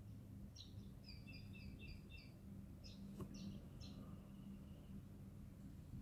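Faint bird calls: quick strings of short, high chirps, one group starting about half a second in and a second group around three seconds in, over a low steady hum.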